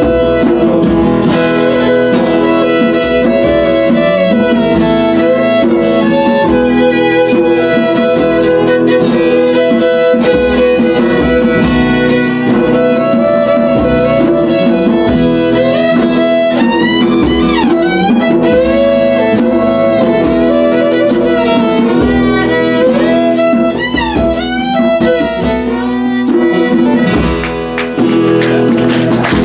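Violin solo, a bowed melody with wavering pitch and slides, played over acoustic guitar accompaniment in a folk song's instrumental break.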